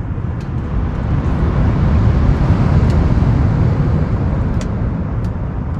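Low, steady wash of sea surf that swells about two seconds in, with a few sharp crackles of birch firewood burning in a wood stove.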